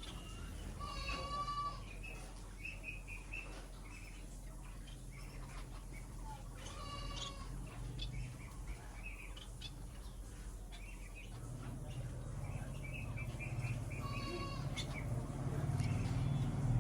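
Small birds chirping, with a longer drawn-out call repeated three times about six seconds apart and short chirps between. A low hum grows louder near the end.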